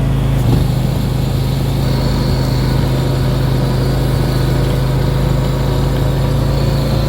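John Deere tractor's engine running steadily while driving its 47-inch snow thrower through deep snow.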